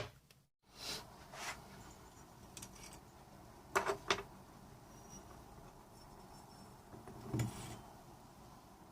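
A handful of light knocks and clinks from motorcycle engine parts and tools being handled and set down on a workbench, spaced a second or more apart.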